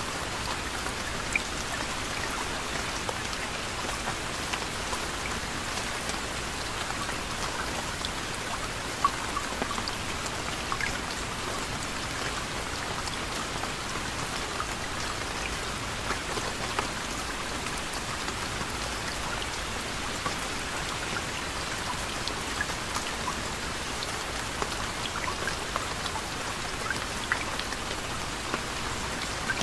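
Steady soft rain: a constant patter with many small individual drops ticking on a surface.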